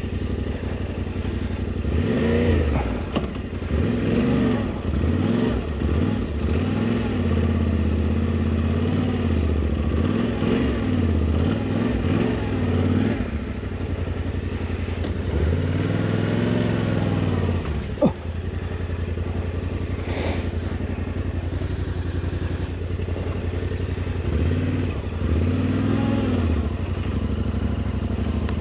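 Yamaha Ténéré 700's parallel-twin engine revving up and falling back in repeated bursts over its idle, as the bike struggles for grip on slippery wet clay and grass. A single sharp click comes about two-thirds of the way through.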